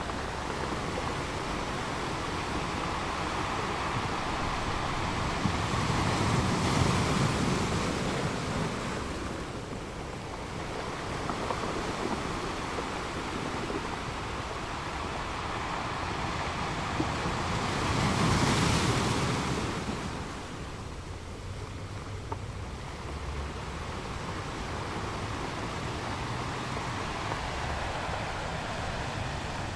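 Ocean surf: a steady rushing of waves that swells twice, about seven seconds in and again near nineteen seconds.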